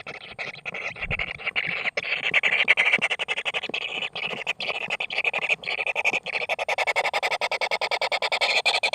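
Kingfisher nestlings giving harsh, rasping begging calls, repeated rapidly. The calls grow louder and fall into a fast, even pulsing rhythm about two-thirds of the way in.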